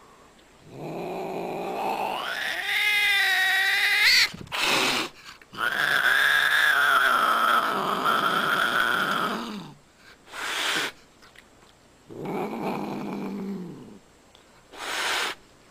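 Domestic cat growling and yowling in long drawn-out calls, the first rising in pitch, with short breathy bursts between them.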